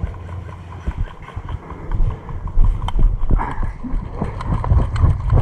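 Irregular footsteps and knocks of carried gear as a player moves, over a low rumble of wind on the microphone.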